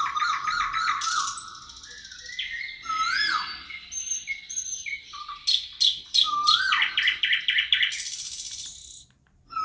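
Several songbirds singing over one another: slurred whistles that rise and fall, mixed with fast trills of repeated notes. The song drops out briefly just before the end.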